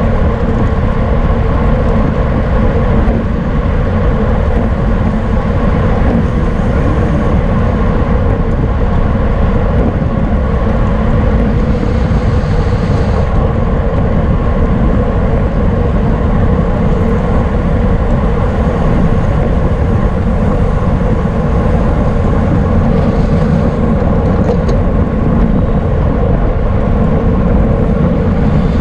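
Loud, steady wind rush and road noise from a racing bicycle at speed, with a few brief faint high hissing patches over it.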